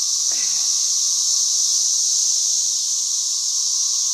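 A dense chorus of male 13-year periodical cicadas singing to attract mates: a continuous high, hissing buzz with a steady lower tone beneath it, unbroken throughout.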